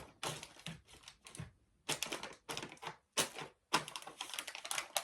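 Plastic snack packets crinkling and crackling as they are handled, in irregular bursts with short pauses between them.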